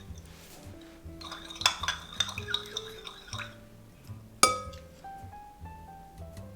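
Kitchen utensils clinking against a glass mixing bowl: a quick run of light clinks, then one sharp clink that rings on, over soft background music.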